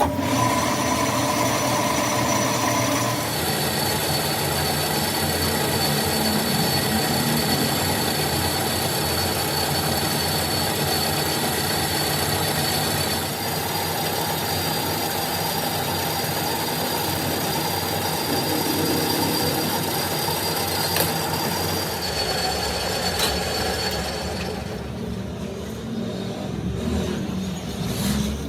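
Machine-shop machinery running steadily during work on a crankshaft, with a constant whine over a broad mechanical noise; the sound shifts about three seconds in and again about halfway, and eases off near the end.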